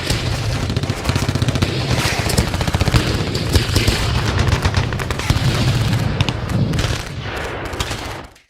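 Sustained rapid automatic gunfire: dense, continuous volleys of shots that ease slightly after about seven seconds and then cut off suddenly near the end.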